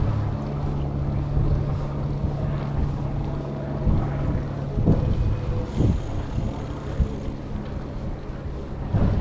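Wind rushing over the microphone of a moving bicycle, with a steady low hum under it and a few short thumps.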